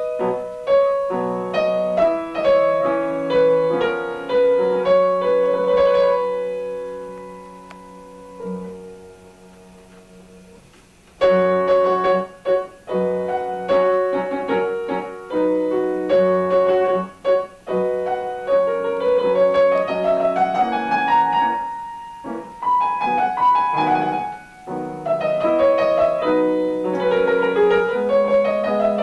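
Piano music: notes and chords. The playing dies away until about ten seconds in, then starts again abruptly about a second later.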